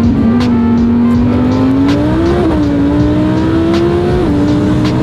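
Twin-turbo Audi R8 engine heard from inside the cabin, accelerating hard in third gear. Its note climbs steadily, dips briefly about halfway through and again near the end, then keeps climbing.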